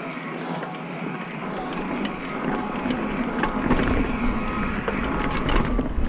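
A downhill mountain bike rolling down a trail, with a steady rush of tyre and trail noise and scattered clicks and rattles. It grows louder as the bike gathers speed, and a deep wind rumble comes in on the microphone over the last couple of seconds.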